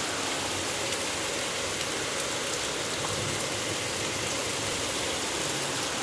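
Heavy monsoon rain falling steadily, an even rushing hiss with no let-up.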